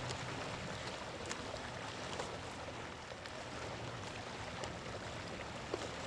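Water washing and lapping around a small boat, a steady wash with scattered small splashes and ticks.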